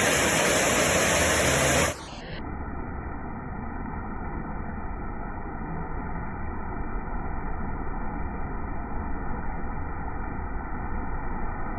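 Steady hiss of rain falling. About two seconds in it turns abruptly duller and quieter, then carries on evenly.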